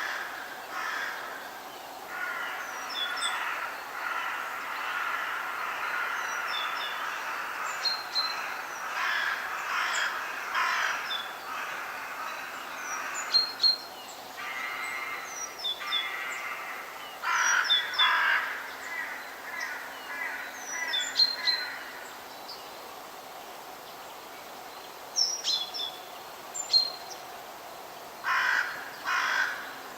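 Forest birds calling: runs of harsh, raspy calls come and go, with short, thin, high chirps from smaller birds scattered throughout. There is a quieter lull a little past the middle.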